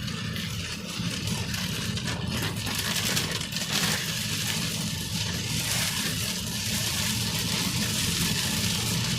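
Heavy rain drumming on a car's roof and windshield, a dense patter of drops, heard from inside the moving car over a steady low engine and road rumble.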